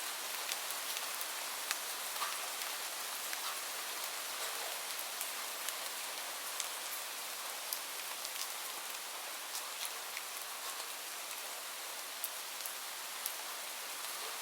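Steady rain: a continuous hiss of rainfall with scattered sharp ticks of single drops hitting a surface.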